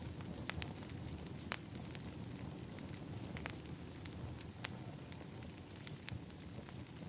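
Wood fire in an outdoor fire pit crackling: several sharp pops scattered irregularly, the loudest about one and a half seconds in, over a steady low rumble.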